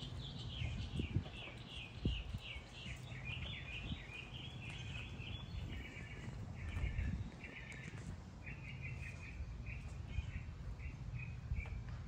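A songbird singing a long run of quick chattering notes, which turn into slower, more spaced phrases about halfway through, over a low steady rumble.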